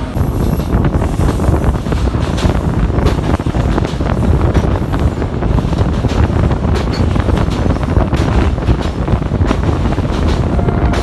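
Passenger train running, heard from on board: a loud, steady rumble with wind buffeting the microphone and scattered sharp knocks from the wheels and carriage.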